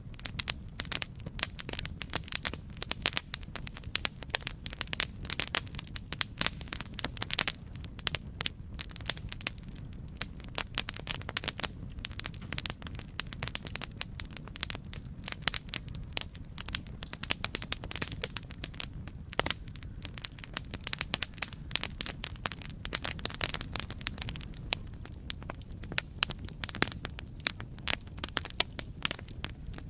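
Campfire burning, with many irregular sharp crackles and pops from the wood over a steady low rumble of the flames.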